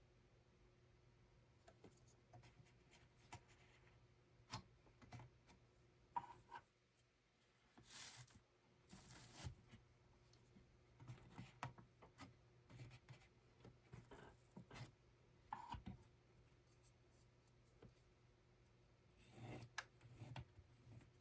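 Faint handling sounds: scattered small clicks, taps and rubbing, with a couple of short swishes about eight and nine seconds in and again near the end, over a low steady hum.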